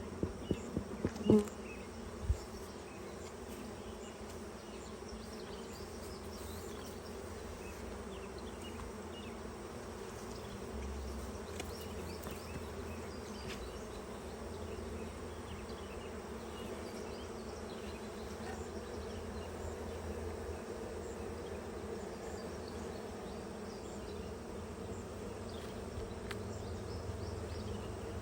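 Honeybees buzzing steadily around an opened hive, a dense continuous hum. A few sharp knocks come in the first couple of seconds.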